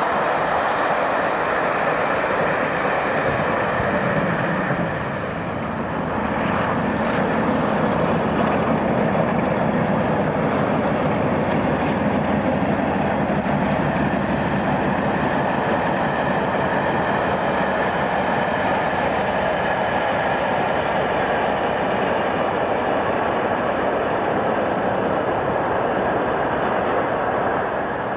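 A diesel train running, a steady dense rumble of engine and wheel noise, dipping briefly about five seconds in.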